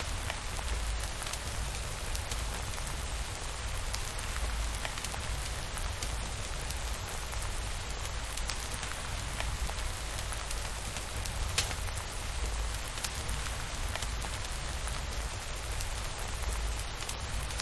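Steady rain falling on a surface, an even hiss with scattered sharp drop ticks over a constant low rumble.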